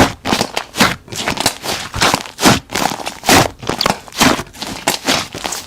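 Hands squeezing and pressing slime, a run of short crackly squishes at about two a second.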